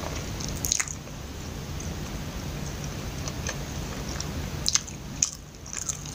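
Close-miked biting and chewing of a soft, sticky glutinous-rice kuih (Loh Mai Chee, mochi skin with ground nuts): squishy wet mouth sounds with sharp sticky clicks about a second in and several more near the end, over a steady low hum.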